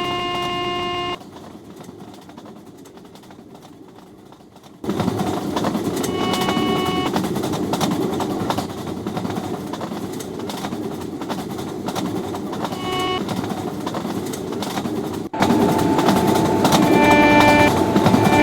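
Train running past at speed with a steady rumble of wheels on track, its locomotive horn sounding several times: briefly about six seconds in, a short toot near thirteen seconds, and a longer blast near the end. The sound jumps abruptly in level a few times, as between cut-together clips.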